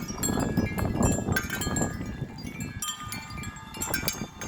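Several metal wind chimes struck rapidly and ringing over each other in a very strong gust, with wind buffeting the microphone. About two and a half seconds in the wind noise drops and the strikes thin out to fewer, separate rings.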